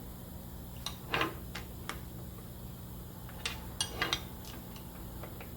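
Light metal clicks and clinks, a few scattered at a time, as the aluminium magnetic bevel jig and steel knife blank are handled and adjusted.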